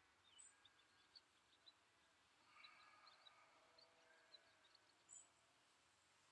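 Faint birdsong: scattered short high chirps and a few brief calls over a quiet outdoor background.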